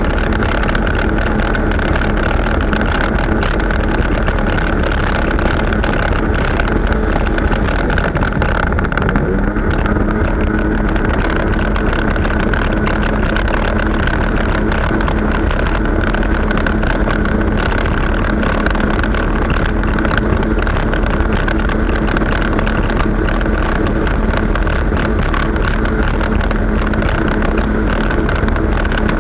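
Jet ski engine running steadily under way, at an even pitch.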